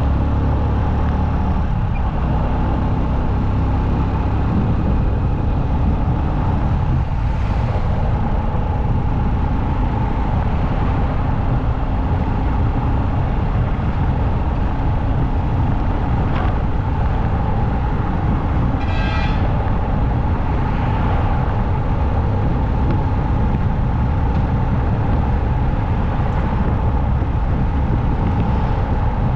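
Motorcycle riding at road speed: steady engine and wind noise. About two-thirds of the way in, a short vehicle horn toot sounds.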